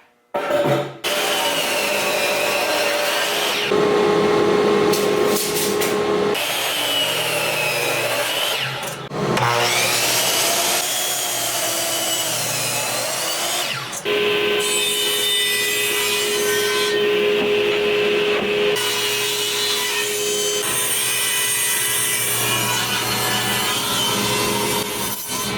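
Power saw cutting lumber in a run of short clips, its motor whine sagging and recovering in pitch as the blade works through the wood.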